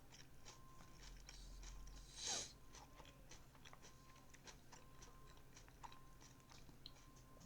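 A person chewing salad with the mouth close to the microphone: faint, irregular crunching clicks, with one louder short sound about two seconds in.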